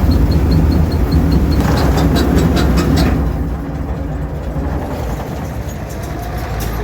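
Farmall 460 diesel tractor engine running steadily under load while driving an International 82 pull-type combine harvesting oats. A fast, regular mechanical ticking is heard at first, then a brief spell of clattering clicks about two seconds in, after which the machine noise eases slightly.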